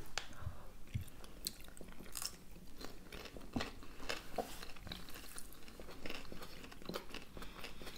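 Chewing and biting of hard-boiled eggs and raw vegetables: irregular small mouth clicks and soft crunches.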